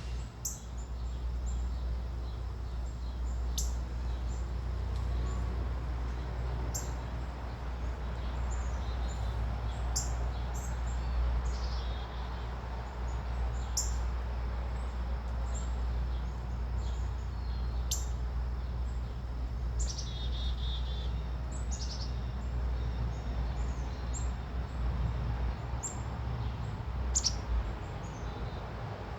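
Small birds chirping: short, high chirps scattered every second or two, with a brief rapid trill about twenty seconds in, over a steady low rumble.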